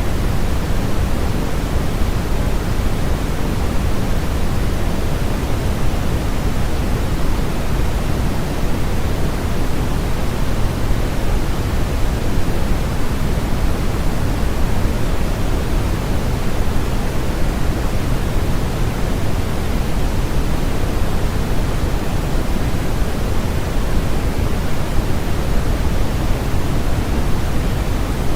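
Steady synthetic sleep noise sold as white noise: a constant, unchanging rush with more weight in the lows than in the treble.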